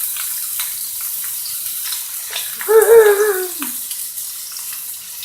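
Chorizo frying in a pan: a steady sizzle with scattered small crackles and pops. About three seconds in, a short wavering voice-like sound rises over it for about a second, the loudest moment.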